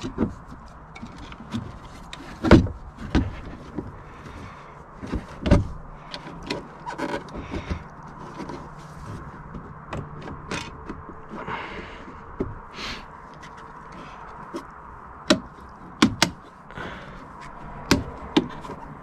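Scattered plastic clicks, taps and knocks as a Scania truck's side-mirror glass is handled and pressed back into its housing, with a few sharper knocks spread through.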